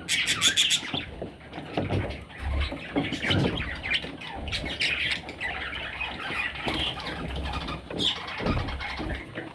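Budgerigar chicks calling with raspy squawks and chirps, loudest in a burst in the first second, over low scuffling noises.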